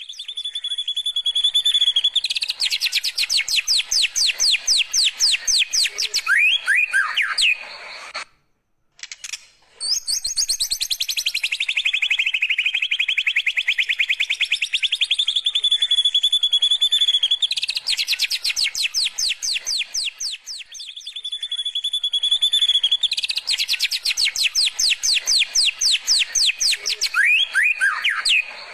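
White-rumped shama singing long runs of very fast repeated notes, its canary-like rapid-fire trill, the pitch sliding down and back up in places, with a short break about eight seconds in.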